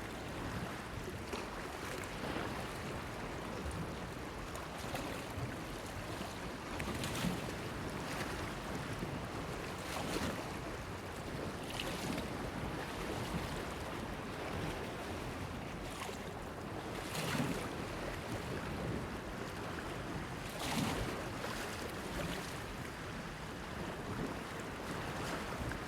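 Small waves splashing against a pier over a steady wash of water and wind, with a louder splash every few seconds.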